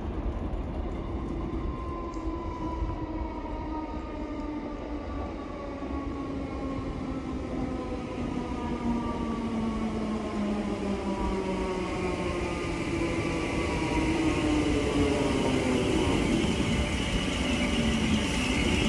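Merseyrail Class 508 electric multiple unit running into the station and slowing, its motor whine falling slowly in pitch over the rumble of the wheels. The train grows louder as it nears, and a higher hiss builds over the last few seconds.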